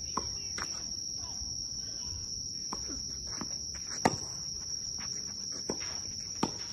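Tennis ball being hit and bouncing in a rally: a series of sharp pops at irregular spacing, the loudest about four seconds in. A steady high-pitched insect drone runs underneath.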